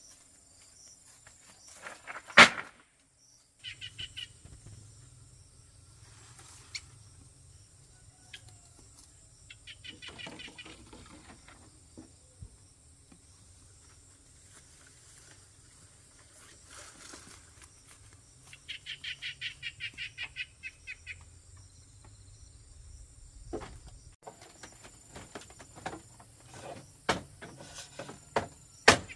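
Outdoor bird calls, including rapid high chattering runs, over a low steady hum. A sharp knock sounds about two seconds in, and a run of sharp knocks starts near the end.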